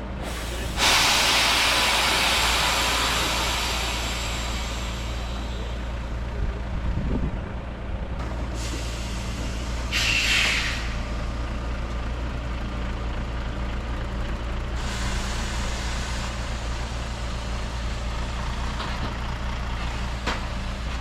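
Heavy truck engine running steadily, with hisses of compressed air from its air brakes: a loud one about a second in that fades over a few seconds, two short ones near the middle, and another from about fifteen seconds in.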